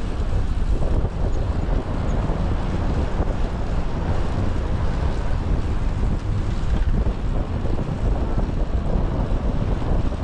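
Wind buffeting a GoPro's microphone while riding a bicycle: a steady low rumble with no breaks.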